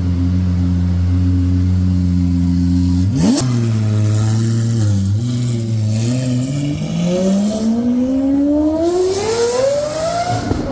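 Lamborghini Aventador's V12 engine idling steadily, then a sharp rev blip about three seconds in. From about seven seconds it makes a long climb in revs, rising steadily to a high pitch near the end.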